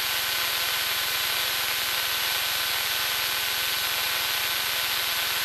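Piper Tomahawk light aircraft engine idling steadily on the ground, heard as an even hum and hiss with fast regular pulsing. A faint steady high-pitched whine sits over it.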